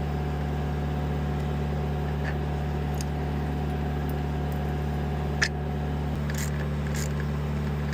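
A steady low engine hum, with a few light clicks and one sharper click about five and a half seconds in.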